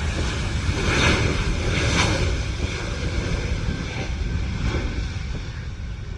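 Airbus A320neo's Pratt & Whitney geared turbofan engines during takeoff, a loud, steady low rumble, with wind noise on the microphone.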